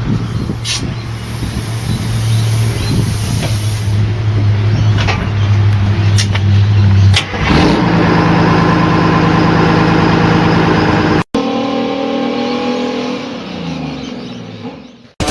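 A large vehicle engine running steadily, then rising to a higher, stronger note about halfway through. After a sudden break the engine note falls away in pitch, and the sound cuts off abruptly near the end.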